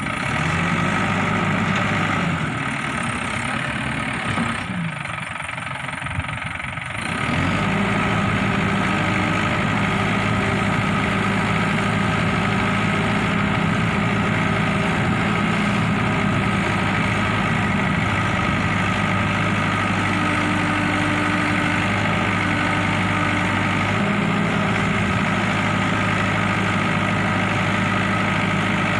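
Backhoe loader's diesel engine running. About seven seconds in it picks up to a louder, higher steady speed and holds there.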